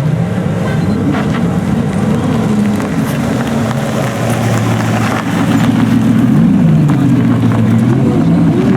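A supercar engine running at low revs with a steady deep note, lifted briefly in pitch by a few light throttle blips. It gets slightly louder about halfway through.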